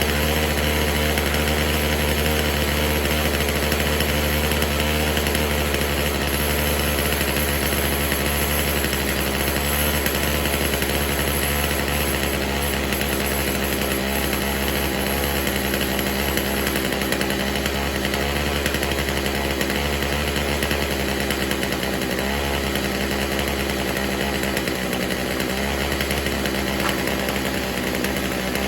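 Poulan Pro two-stroke chainsaw engine running steadily at low speed with the choke on, during carburetor tuning.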